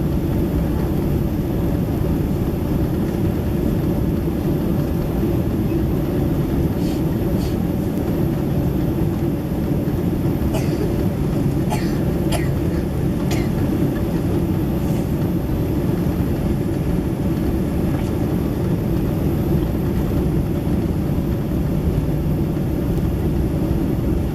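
Steady cabin roar inside a Boeing 767-300ER in flight, heaviest in the low range, with a few faint clicks about a third to halfway through.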